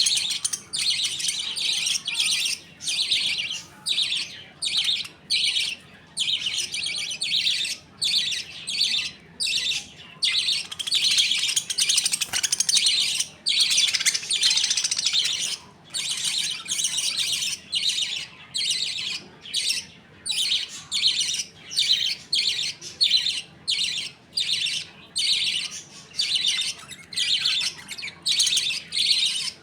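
A colony of budgies chattering and chirping almost without pause, in quick bursts broken by brief gaps.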